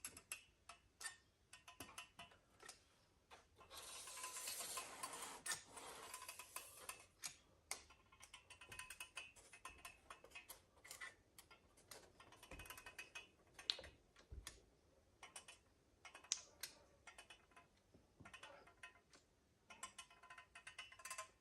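Faint hiss of insulating spray foam being dispensed for about three seconds, starting about four seconds in, among many faint scattered clicks and ticks from handling the foam gun and foamboard. Otherwise near silence.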